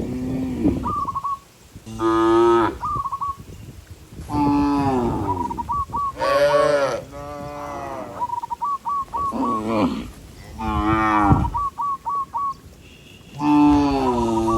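Cows mooing again and again: about seven long calls, some overlapping at different pitches. Between the calls come short runs of small, quick, high notes.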